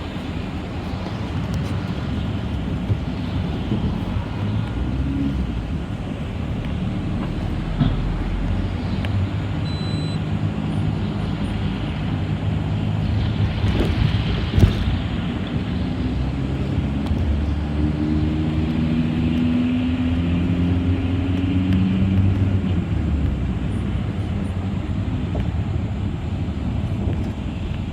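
City bus running along the road, heard from inside: a steady engine and road rumble. The engine tones climb in steps between about two-thirds of the way through and near the end, as the bus accelerates. A couple of brief knocks come about 8 and 15 seconds in.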